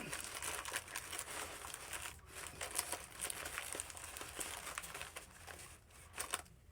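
Plastic bag of Band-Aids crinkling and crackling as it is squeezed to force out the air and folded into place. The crackling is dense at first and thins out near the end.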